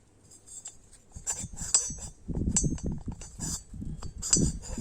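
Small metal engine parts, a new piston and its rings, clinking lightly as they are handled. Scattered clicks start about a second in, and louder handling noise with more clinks follows from about two seconds in.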